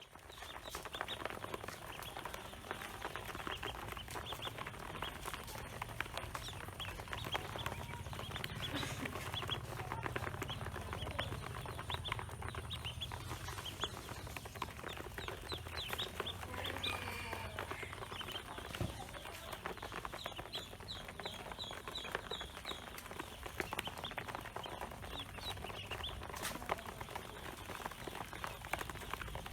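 Pekin ducklings peeping, a steady stream of short, high peeps overlapping one another.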